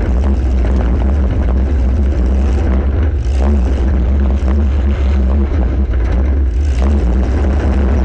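Compact demolition derby car's engine running with a heavy, steady low drone, with scattered faint knocks.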